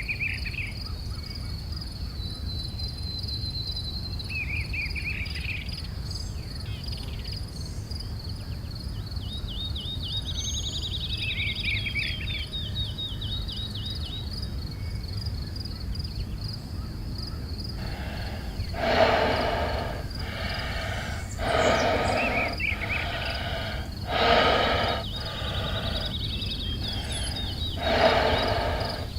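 A steady high insect trill with a few bird chirps, then from about two-thirds of the way in a large animal calling loudly again and again, each call about a second long and coming every two to three seconds.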